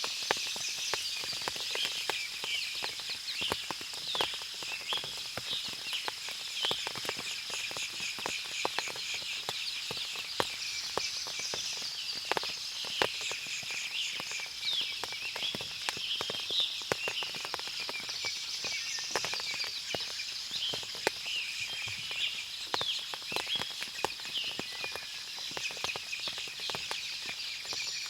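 Forest ambience after rain: many birds chirping and calling over a steady high-pitched insect drone, with frequent sharp ticks of water dripping from the trees.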